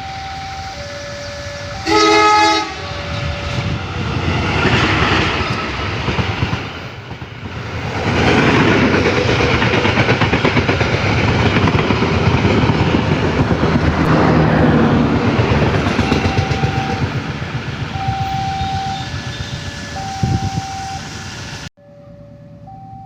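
Level-crossing warning alarm sounding in two alternating tones, then a short blast of a KAI CC204 diesel locomotive's horn about two seconds in. It is followed by the loud rumble and wheel clatter of the passenger train passing at speed for about fifteen seconds, with the alarm heard again under it near the end. The sound cuts off suddenly just before the end.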